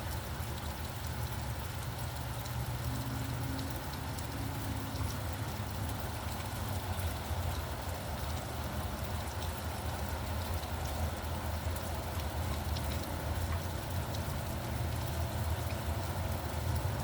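Steady rain falling, with scattered drop ticks, over a low steady rumble of traffic.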